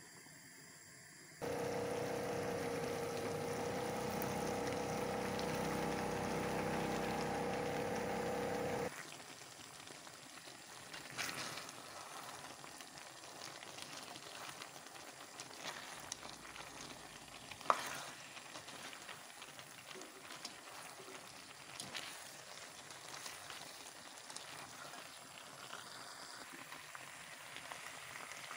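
Pasta in tomato sauce sizzling in a steel pan as it is stirred, with a few sharp clicks. A loud steady droning hum runs from about a second and a half in to about nine seconds in, then stops suddenly.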